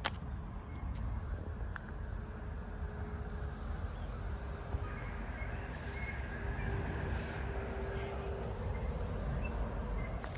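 Outdoor ambience: a steady low rumble with faint, high insect chirps repeating about four times a second, and a faint steady hum through the middle.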